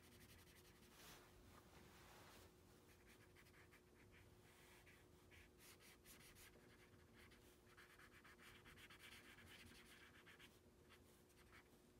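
Felt-tip marker colouring on paper in repeated short strokes, faint.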